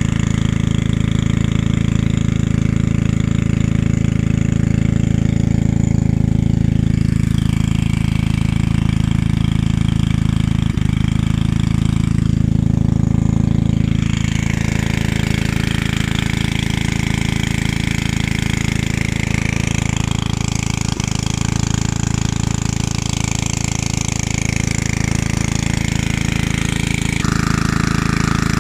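Small engine-driven water pump running steadily at a constant speed, very noisy, drawing creek water up a hose to fill a pool.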